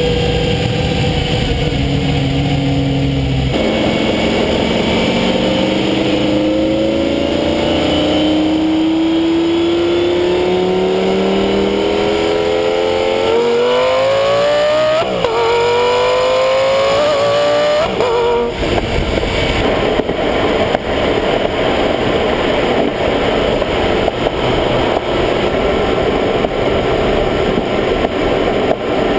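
Lamborghini Gallardo Superleggera's V10 exhaust heard up close at the tailpipe. The engine note climbs steadily under acceleration, then jumps through a few quick gear shifts about halfway through. After that it turns to a loud, steady rushing roar.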